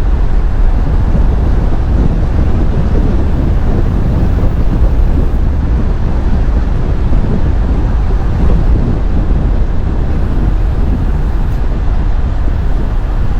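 Steady, loud low rumble of a moving truck: road and engine noise.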